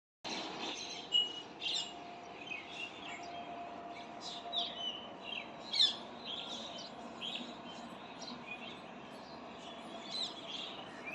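Several birds chirping and calling in short, sharp notes scattered throughout, with a faint steady hum underneath for the first few seconds.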